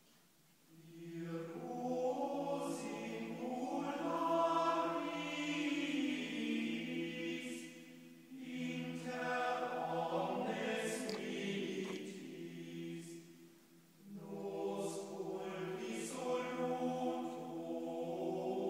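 Background music of choral chanting: several voices holding long notes over a steady low drone, in three long phrases with brief dips between them.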